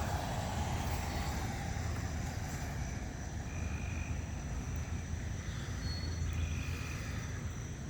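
Steady low outdoor rumble of engine or traffic noise, with a few faint short high-pitched tones partway through.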